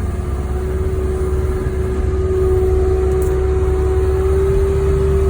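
Wheel loader's diesel engine running as it drives, a deep steady rumble with a steady whine over it.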